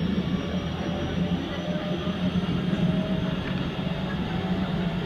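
Keikyu 2100-series electric train running along the line, heard from inside the front car: a steady rumble of wheels on rail with a steady hum.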